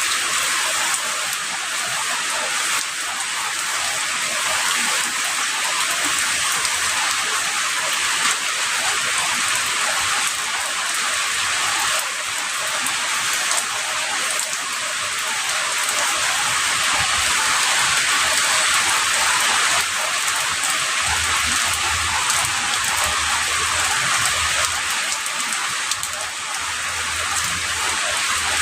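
Heavy rain falling steadily, a dense even hiss of drops on surfaces. A faint low rumble comes in during the last several seconds.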